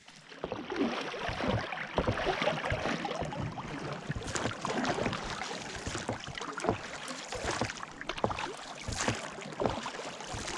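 Water splashing and lapping around a small boat, with irregular knocks and clatters.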